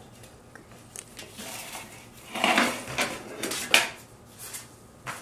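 Metal pan and oven rack clattering and scraping as a pizza is put into the oven, with a sharp clack near the end of the clatter.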